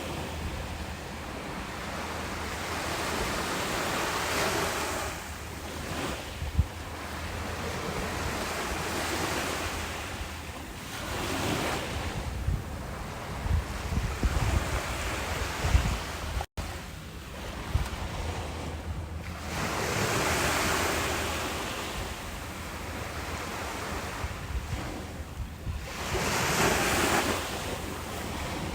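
Ocean waves breaking and washing up a beach, the surf swelling and ebbing every few seconds. Wind gusts rumble on the microphone, mostly around the middle. About halfway through there is a split-second break in the sound.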